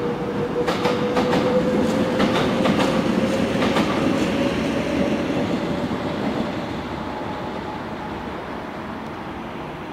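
Electric commuter train pulling away: wheels clicking over rail joints during the first few seconds, with a motor whine slowly rising in pitch. The whole sound fades as the train recedes.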